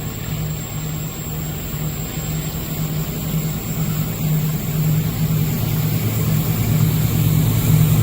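Diesel locomotive engine running with a steady low drone, growing louder as the train approaches.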